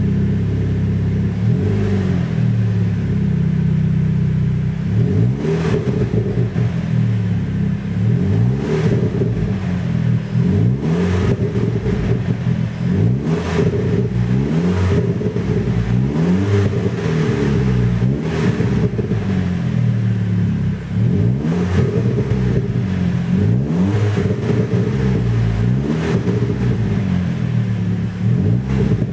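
Audi TT mk2's turbocharged 2.0 TFSI four-cylinder engine, breathing through a custom stainless-steel exhaust silencer. It runs steadily for a few seconds, then is revved again and again, each rev rising and dropping back, about one every one and a half to two seconds.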